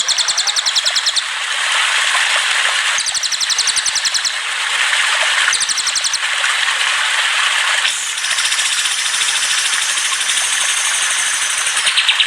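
Songbird song, as played to caged birds for training: rapid high-pitched trills in short bursts of about a second, repeating several times, over a steady hiss.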